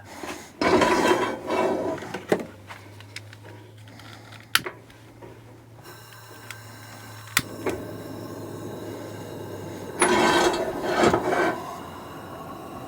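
Cooking handling at a camp stove skillet: two spells of scraping and rubbing, each a second or two long, one near the start and one about ten seconds in. Between them come a couple of sharp clicks and a low steady hum.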